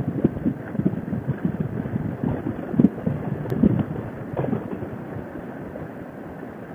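Wind buffeting the microphone of a motorcycle under way, in uneven low gusts over the running engine and road noise, easing a little near the end.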